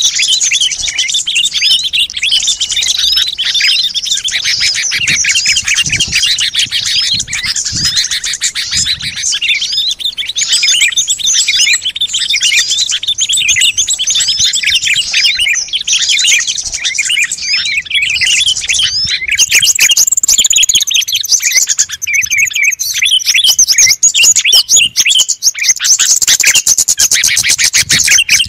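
Dense chorus of many small songbirds chirping and twittering over one another without a break: a bird-lure recording for calling wild small birds in. About two-thirds of the way through, some higher, sharper notes join in.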